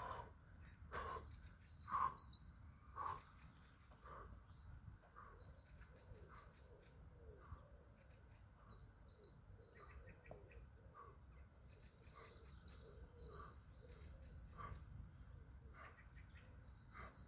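Small birds chirping and twittering faintly, with a soft regular tap about once a second that is clearest in the first few seconds.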